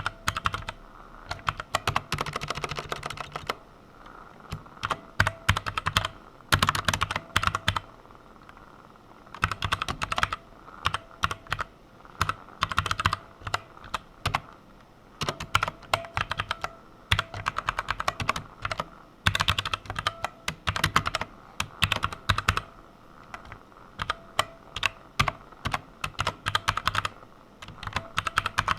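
Computer keyboard typing: quick runs of keystrokes broken by short pauses of a second or so.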